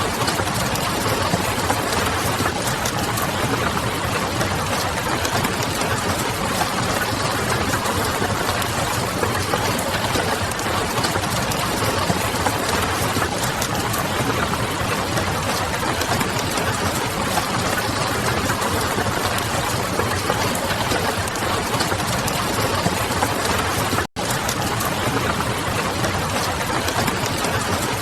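Ambient mix of steady rain with the small crackles of a wood fire, a continuous even hiss. It cuts out for a split second late on.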